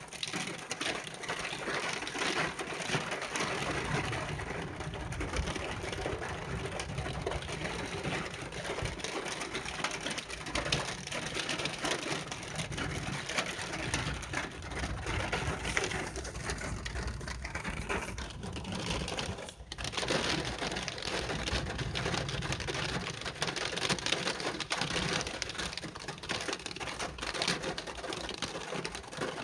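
Rain falling steadily, a dense crackling patter, briefly easing about two-thirds of the way through.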